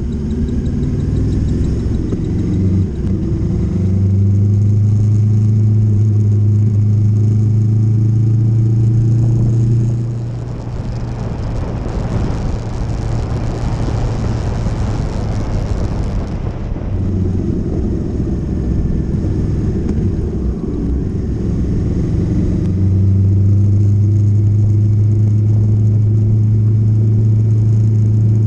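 Motorcycle engine running steadily under way. About a third of the way in, its note drops back and a rushing noise takes over for about six seconds; then the steady engine note returns.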